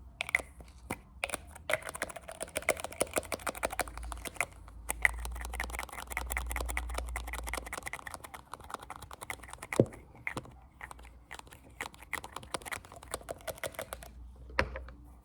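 Fast ASMR finger tapping: a rapid stream of crisp clicks that starts sparse, runs densely for most of the stretch, and has a single louder knock about ten seconds in.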